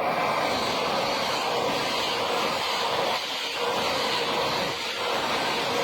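A train passing through the station close by: a loud, steady rushing noise of wheels on rail and moving air, dipping briefly twice.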